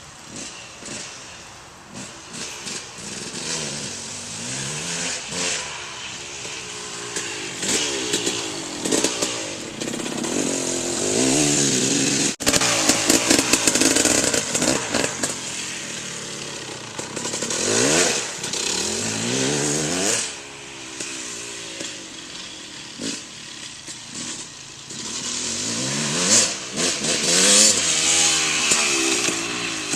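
Two-stroke engine of a KTM 300 MXC dirt bike riding around, revving up and falling back again and again with a buzzing, chainsaw-like tone, loudest about halfway through and near the end.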